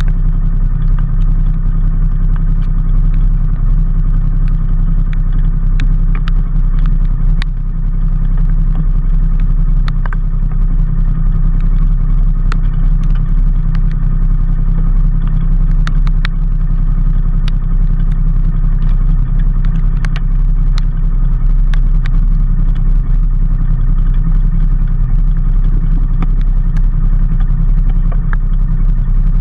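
Motor vehicle engine running steadily at a constant pace, with a strong low hum of road and wind noise and scattered sharp ticks throughout.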